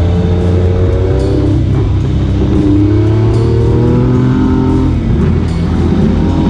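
Motorcycle engines accelerating, their pitch climbing steadily over a second or two and starting again through the gears. Background music with a steady beat plays under them.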